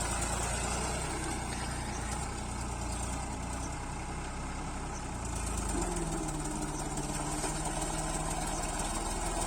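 Diesel tractor engine running steadily. About six seconds in its note shifts and it gets a little louder.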